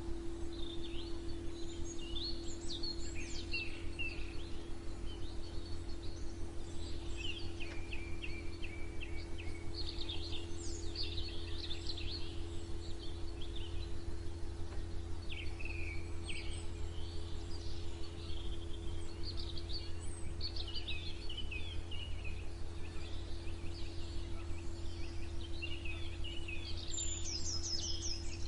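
Several songbirds chirping and singing, with quick trills and short note series overlapping throughout, over a steady low hum.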